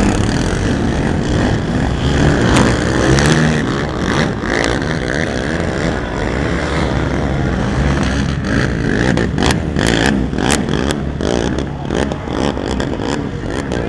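Racing ATV engines revving, their pitch rising and falling as they run the track. Sharp clicks and knocks are scattered through the second half.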